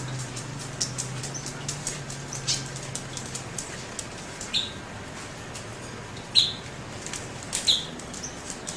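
Birds feeding, with many light clicks and a few short, high chirps, the loudest just past the middle and again near the end.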